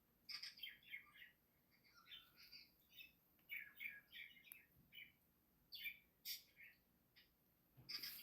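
Budgerigar chirping faintly in short clusters of quick, high chirps, on and off.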